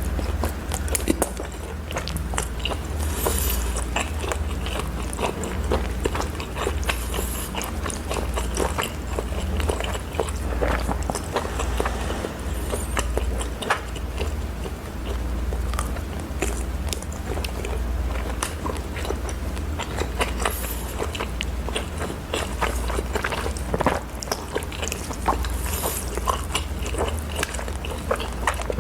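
A person chewing and biting food with many small wet smacks and clicks, over a steady low hum.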